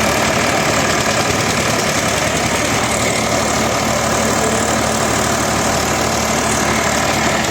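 Diesel tractor engines of an Eicher 242 and an Indo Farm 3055 running loud and steady, without a break.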